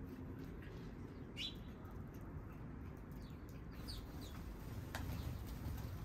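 Small birds giving brief chirps: one about a second and a half in and a few quick ones around four seconds, with a sharp tick a little later. Under them runs a steady low hum of city noise.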